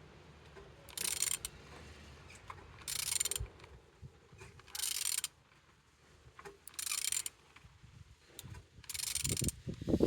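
Ratchet wrench turning a used car engine's crankshaft over by hand: a short rasping ratchet run about every two seconds as the handle is swung back between pulls, with a low thud near the end. The engine turns freely, not seized.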